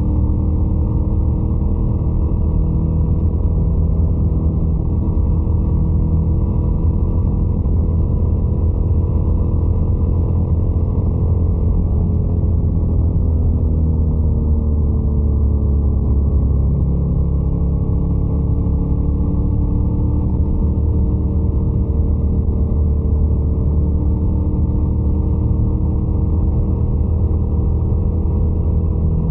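Scrambler 800 motorcycle's twin-cylinder engine running steadily under way, its pitch sinking gradually about halfway through and then holding level again.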